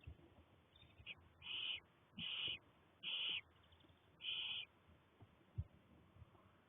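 Young barn owl chicks in a nest box giving four hissing begging calls, each about half a second long, about a second apart, followed by a single soft thump.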